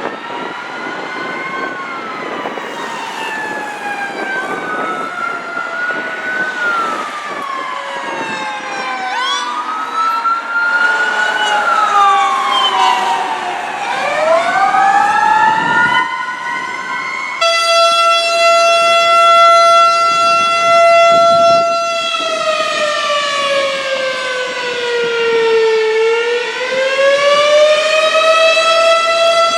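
Fire apparatus sirens: for the first half several wailing sirens sound at once, their pitches gliding up and down and crossing each other. Partway through the sound switches abruptly to a single steady siren tone with many overtones, which sags in pitch for a few seconds and then winds back up.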